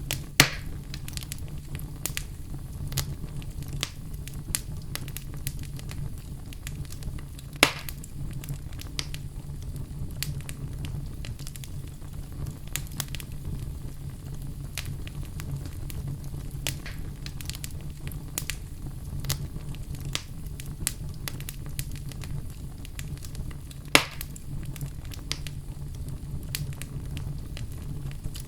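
Wood fire crackling in a fireplace: a steady low rumble under many small crackles, with three loud pops, one at the very start, one about 8 seconds in and one near the end.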